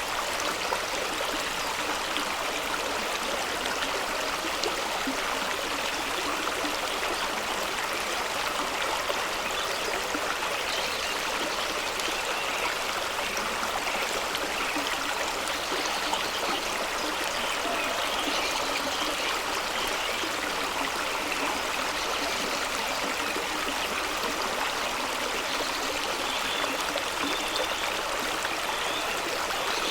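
Fast-running stream rushing and splashing over rocks in a steady, even wash of water sound.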